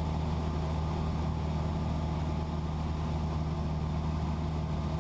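Cessna 172's piston engine and propeller droning steadily in the cabin during a slowed descent.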